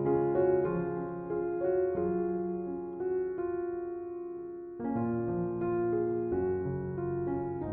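Slow relaxation piano music: single notes and held chords over a low bass line, with a chord left to fade for a second or so before a new one is struck about five seconds in.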